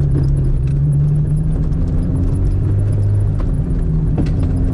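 Dacia car's engine running on the move, a steady drone whose pitch slides down over the first three seconds and then holds.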